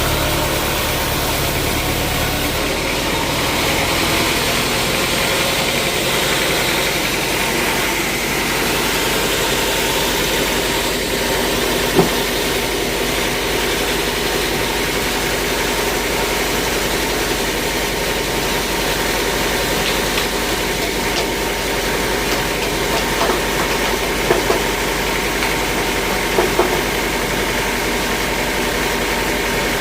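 Sawmill machinery running steadily, a continuous motor drone. A single sharp knock sounds about twelve seconds in, and a few more short knocks come near the end.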